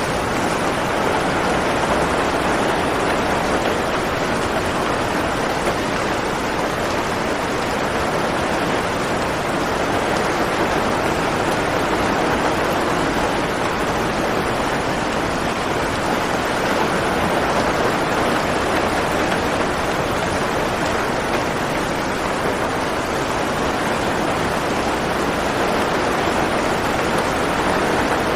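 Steady heavy rain, an even hiss of falling water with no single drops standing out.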